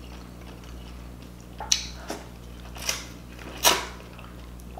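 Close-miked wet chewing of sauce-coated seafood boil, with four short lip smacks in the second half.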